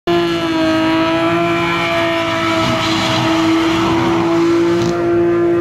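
BMW M4's twin-turbo straight-six held at steady high revs, its pitch barely changing, while the rear tyres spin and screech during a smoky drift.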